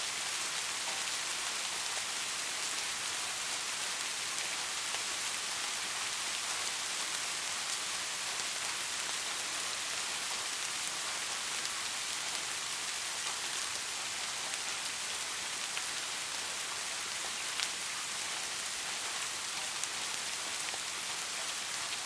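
Steady rain falling on a surface, an even hiss with occasional sharper drop ticks.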